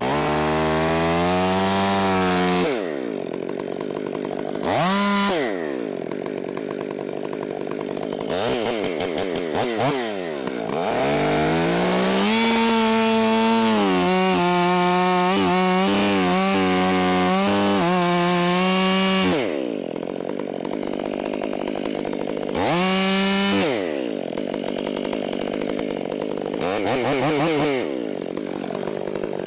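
Gas chainsaw running at full throttle, dropping to idle and revved in short blips, with a long stretch at high revs under load about halfway through as it cuts into a tree trunk during felling.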